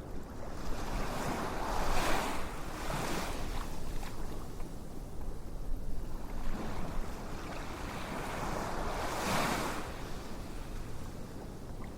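Ocean waves washing in and drawing back, two swells rising and fading several seconds apart.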